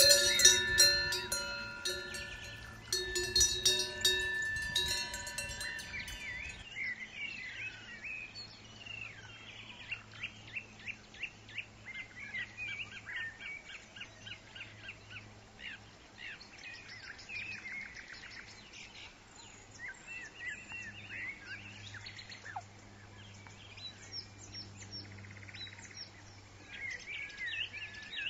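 Cowbells clanking with ringing tones for about the first six seconds, then an abrupt cut to many small birds chirping and singing in quick, overlapping calls.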